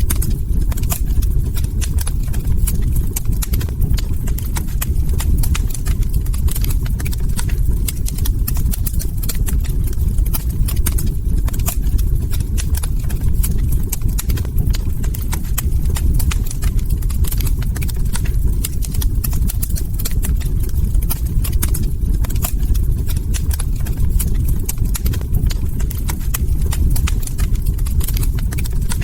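Wood log fire burning in a fireplace, crackling with many small, quick pops over a steady low rumble.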